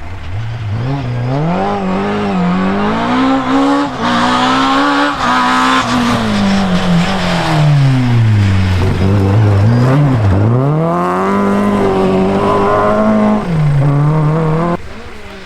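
Historic rally car engine at full throttle, its pitch climbing and dropping again and again through gear changes and lifting off for corners. The sound drops off sharply near the end.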